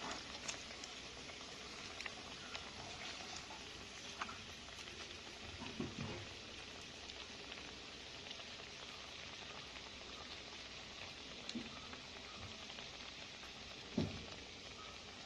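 Breaded tapioca cutlets frying in hot oil in a pan, a steady soft sizzle with small crackles. Two brief soft knocks come about six seconds in and near the end.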